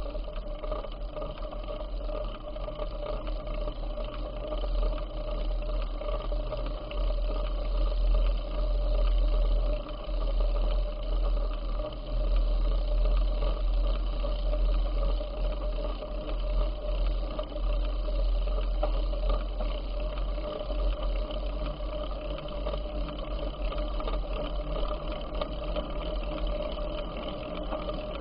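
Wind buffeting the microphone of a moving bicycle rider, a gusty low rumble that swells through the middle, over a steady whirring hum from the ride.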